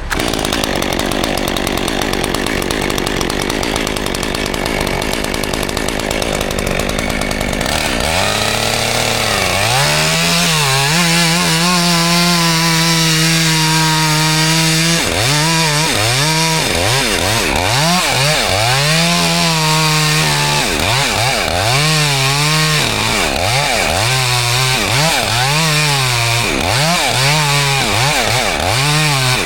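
Gas chainsaw running. For the first several seconds it makes a steady engine noise, then it is repeatedly throttled up to full speed, held for a second or two at a time, and let back down to a lower speed in between, as in cutting.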